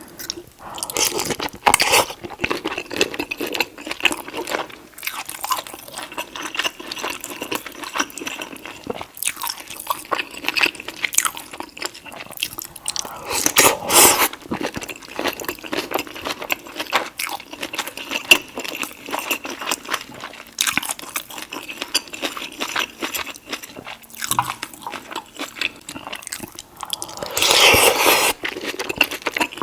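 Close-miked eating of deshelled seafood boil in sauce: wet chewing, biting and lip smacking, with louder bursts twice.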